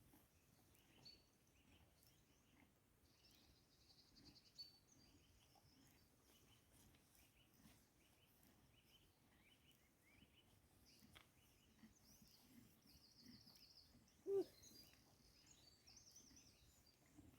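Near silence with faint birds chirping and giving short trills, and one brief louder sound about fourteen seconds in.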